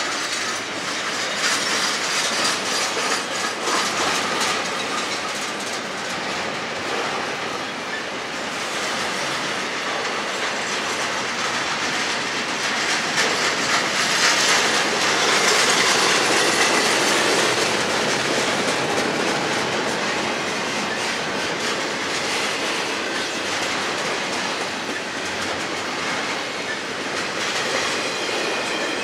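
Double-stack intermodal well cars of a freight train rolling past close by, with steady wheel clatter over the rail joints and the rumble of the cars. The sound gets louder about halfway through.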